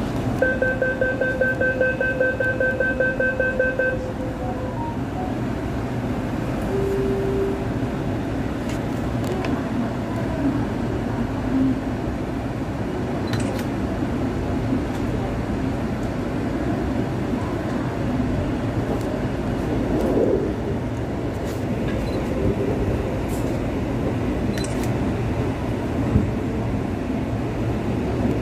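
Rapid door-closing warning beeps from an MTR SP1900 train for about four seconds, then the steady running noise of the train standing at the platform. Near the end the train starts to pull away.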